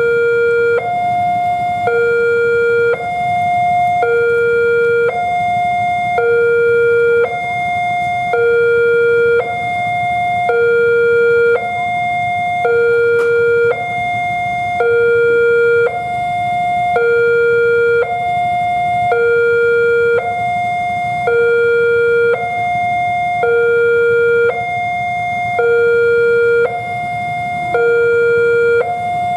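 Railway level-crossing warning alarm sounding a two-tone electronic signal, a low and a higher tone each held about a second in turn, with a low rumble underneath. The alarm signals that a train is approaching and the crossing is closing.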